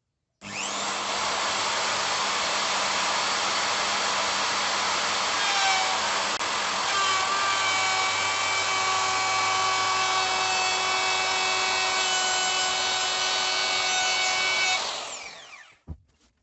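A power tool runs steadily for about fourteen seconds while it works, with a high whine that comes in partway through, then switches off and winds down.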